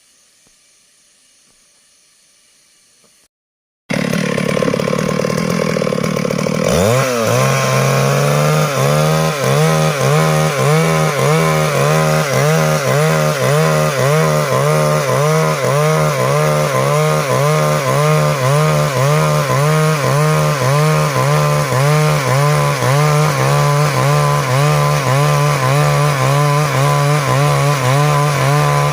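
Stihl MS382 two-stroke chainsaw comes in loud about four seconds in, climbs to full speed and runs on steadily, its pitch wavering in a regular rhythm as it cuts through wood.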